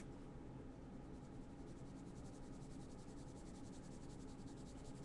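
Faint, rapid scratching of a pen drawing strokes, over a steady low room hum.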